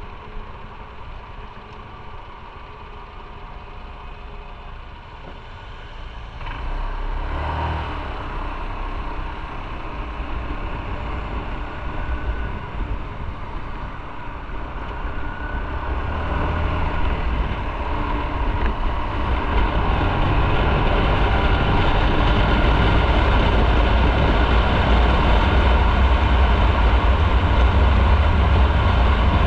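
Motorcycle on the move: engine and rushing wind and road noise. It jumps louder about six seconds in, then builds steadily, with a deepening low rumble toward the end.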